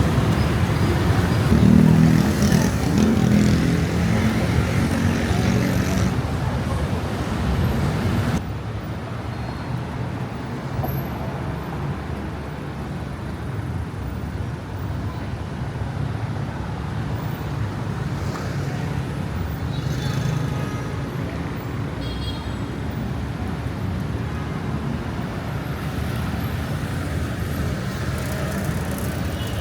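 City street traffic: steady noise of cars and other road vehicles, with a vehicle engine running loud and close in the first few seconds. After about eight seconds the sound drops abruptly to a softer, steady traffic noise.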